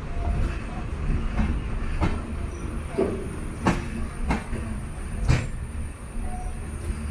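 Express passenger train under way: a steady low rumble of the coaches rolling on the track, broken by several sharp clanks and knocks from the wheels and couplings.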